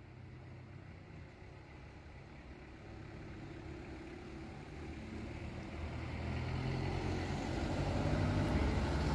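A motor vehicle approaching, its low engine hum growing steadily louder to a peak near the end.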